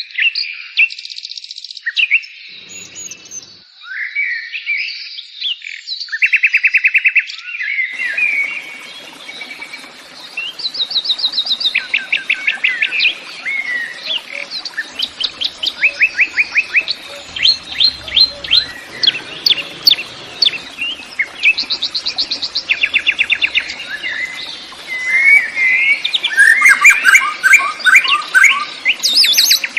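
Songbirds singing: repeated chirps and fast trills of quick pitch sweeps, with a steady background hiss joining about a third of the way in.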